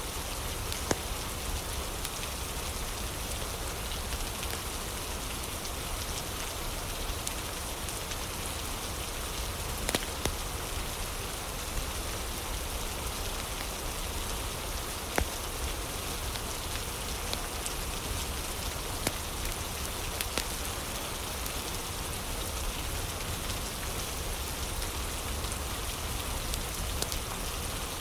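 Ambient rain falling steadily, with a handful of sharp pops from a crackling fire standing out above it.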